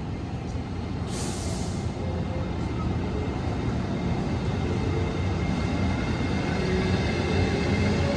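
Electric limited express train running along the platform and growing steadily louder, with a short hiss of air about a second in. Near the end a motor whine rises in pitch as the train picks up speed.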